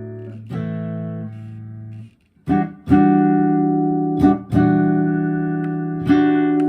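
Fender Custom Shop Nocaster electric guitar playing chords, each left to ring. The strings are muted briefly about two seconds in, then chords are struck about five more times.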